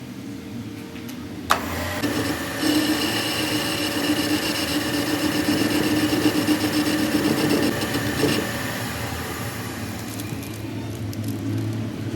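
A power tool running on metal with a steady, high whine and a rasping grind. A sharp click comes about a second and a half in. The grinding starts soon after and eases off after about eight seconds.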